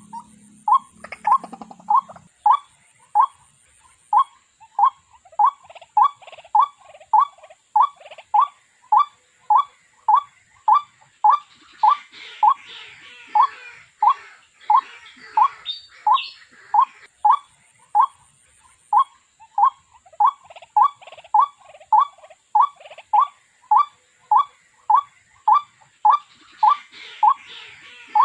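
Water hen calling: a long, monotonous run of short, identical notes repeated at an even pace of about three every two seconds.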